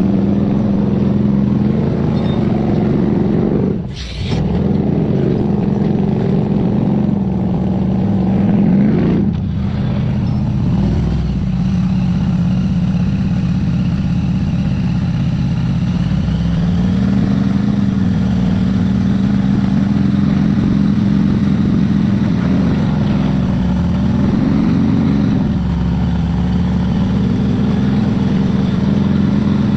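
Truck engine running steadily under load, the revs rising and easing off a few times, with a brief drop about four seconds in.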